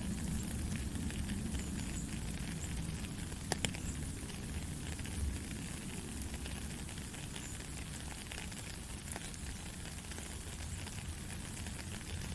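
Heavy rain falling steadily, a dense even hiss over a low rumble, with scattered sharp clicks of drops, the clearest about a third of the way in.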